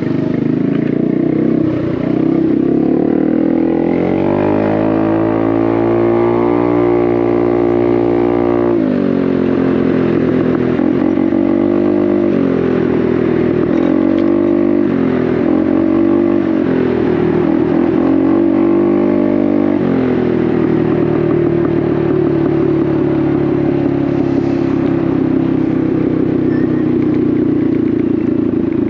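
Honda Navi's small single-cylinder engine through a Vance & Hines exhaust, on the move. The revs climb steadily for about four seconds and then drop off sharply. Several short rises and falls in revs follow, and for the last third the engine runs at a steady pitch.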